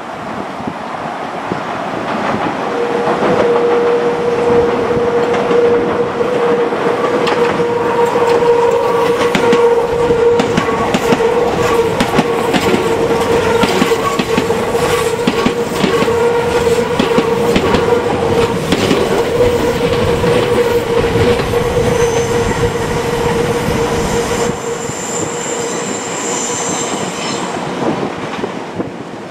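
A Meitetsu electric train passing close by, its wheels clattering over rail joints, with a steady tone held for most of the pass. A thin high squeal rises near the end as the train runs off.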